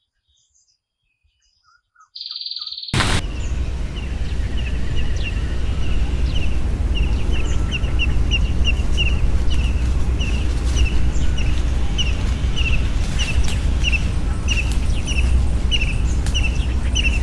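A bird chirping over and over, short high chirps about two a second, above a steady low outdoor rumble that comes in suddenly about three seconds in; the first couple of seconds are nearly silent.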